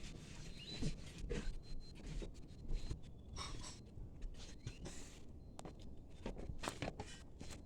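Soft scratchy rustling and light irregular knocks of footsteps and handling noise as someone walks down, with a faint high steady tone coming and going.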